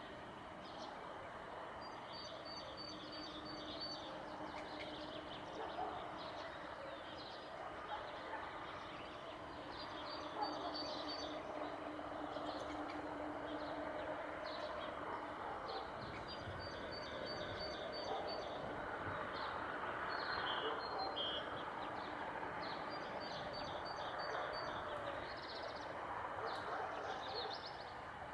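Songbird singing a short phrase of rapid, high repeated notes, given four times at intervals of several seconds, over a steady background hiss of outdoor noise.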